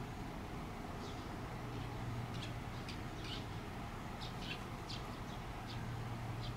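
Small birds chirping: about a dozen short, high chirps scattered through, over a faint low hum that comes and goes.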